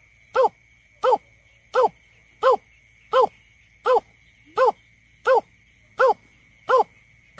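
Greater painted-snipe's hooting call: short, round notes repeated evenly, about ten in a row, each rising and falling slightly in pitch. It is played as a lure recording.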